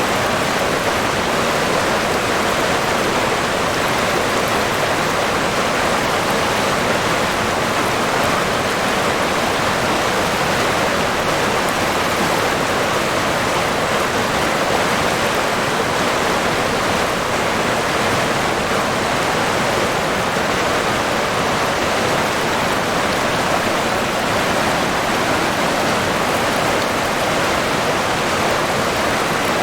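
River water running in a steady, unbroken rush of flowing water.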